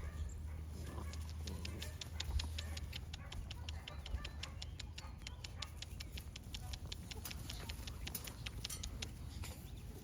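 Eight-week-old North American Mastiff puppies moving about, with many quick sharp clicks, several a second, over a steady low rumble.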